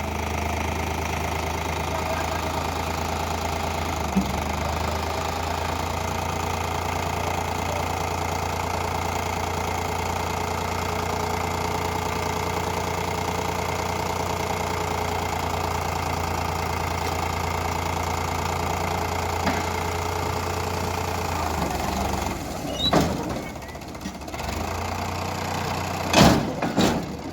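Tractor diesel engine running steadily at a low, even note. About three-quarters of the way in the note changes, and a few sharp knocks or clunks follow, the loudest near the end.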